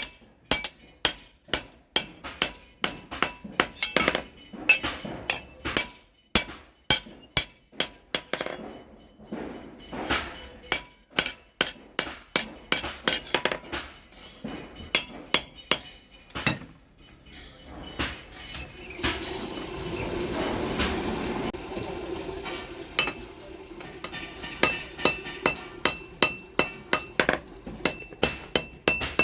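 Hand hammer striking steel on an anvil while forging a billhook machete: a steady rhythm of ringing blows, about two to three a second. For a few seconds past the middle the blows stop and a steady whirring noise takes over, then the hammering resumes.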